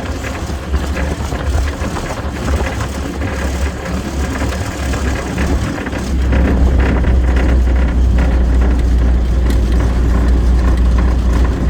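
Diamond T-built WWII half-track on the move, its White straight-six engine running with a steady low rumble that grows louder about halfway through.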